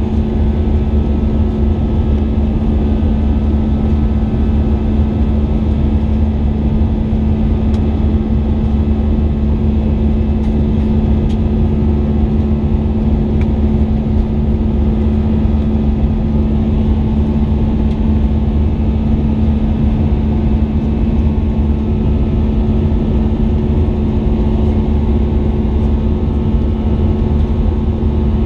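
Steady cabin noise inside an Airbus A320 under power: the deep drone of its jet engines and rushing air, with a steady hum over it that doesn't change.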